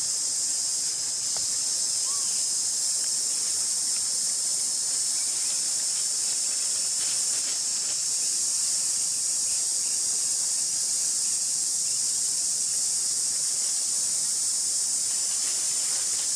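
Steady, high-pitched insect chorus droning without a break, with a few faint ticks.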